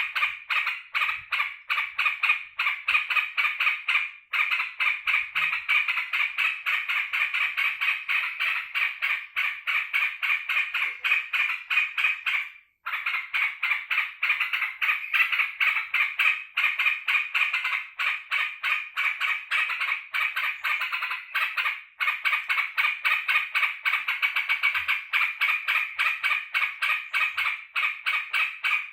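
Yellow-vented bulbul (trucukan) calling in a long, fast, unbroken run of sharp chattering notes, pausing briefly three times. This is the excited chatter it gives on greeting its keeper.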